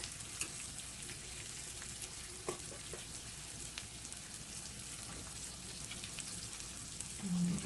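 Beef and shrimp sizzling steadily on a grill, with a few faint clicks.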